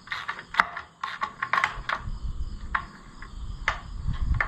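Ratchet wrench clicking in short, uneven strokes, with light metal clicks, as the valve cover bolts are loosened.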